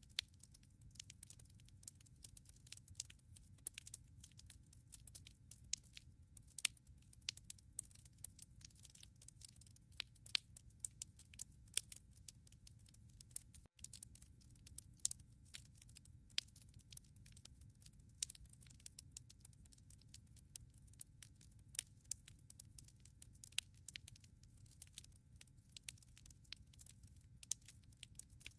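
Wood fire crackling in a fireplace: dense irregular pops and snaps of burning logs over a faint, steady low rumble of the flames.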